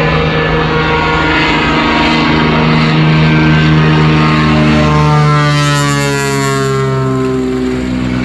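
Cessna floatplane's piston engine and propeller running loud and steady at takeoff power. About five seconds in, the pitch starts falling.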